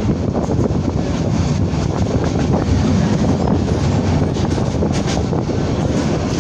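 Passenger train running along the track: a steady, loud rumble of wheels and carriage, with a few light clicks and some wind on the microphone.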